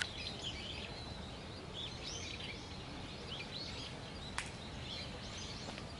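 Birds chirping: many short, high calls scattered through, over steady low outdoor background noise, with one sharp click about four and a half seconds in.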